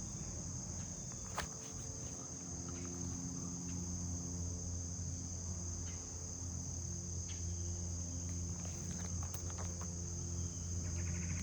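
Crickets chirping in a steady high trill over a low, steady drone that grows a little louder near the end.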